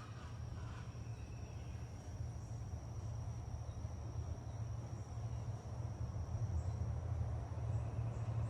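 Crickets or similar insects trilling without a break in one steady high pitch, over a steady low rumble that is the loudest sound and swells slightly toward the end.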